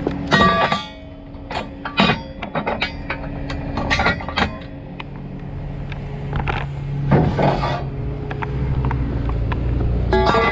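A series of sharp metallic clanks and knocks, irregularly spaced, over the steady hum of an idling vehicle engine.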